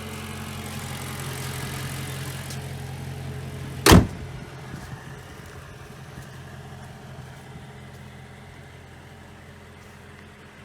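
BMW E92 M3's S65 4.0-litre V8 idling steadily, getting quieter in the second half. A single loud thump about four seconds in.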